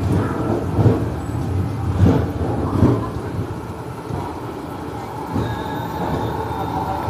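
Kaveri Express passenger train running with a steady low rumble and three loud knocks about one, two and three seconds in. A faint steady tone comes in a little past halfway.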